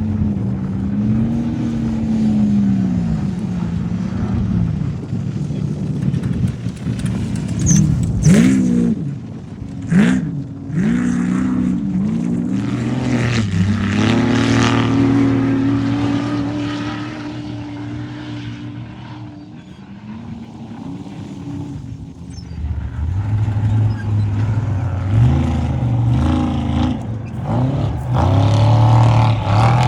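Off-road race vehicle engine revving hard, its note rising and falling again and again, with quick sharp blips about a quarter and a third of the way in. It holds a steady high note midway, then revs up and down again toward the end.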